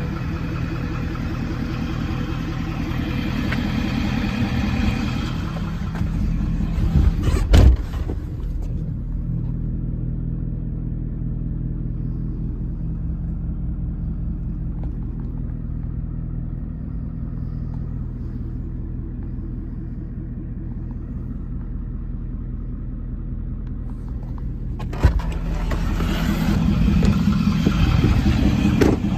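Ford 6.7 L Power Stroke V8 turbodiesel idling steadily. About seven seconds in there is a loud thump, after which the engine sounds muffled until another knock about 25 seconds in, when it turns clear again.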